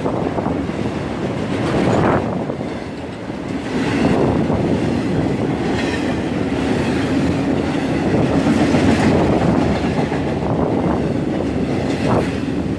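BNSF intermodal freight train's cars rolling past at close range, a loud, steady rumble and clatter of steel wheels on rail.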